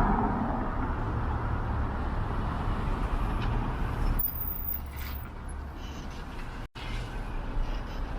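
Road traffic on a city street: a vehicle passing close by and fading away at the start, then a steady rumble of engines and tyres from the passing cars.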